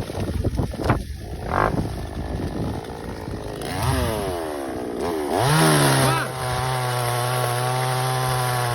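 Small engine revved up and down a few times, starting about four seconds in, then held at a steady high speed. Before that come irregular knocks and rustling.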